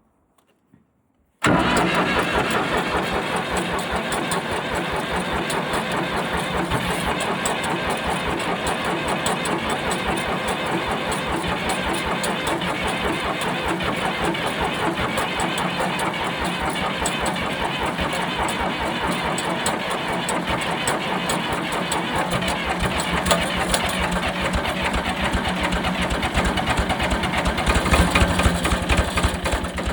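An engine starts suddenly about a second and a half in and runs steadily with a fast, even pulse. It dies away just before the end.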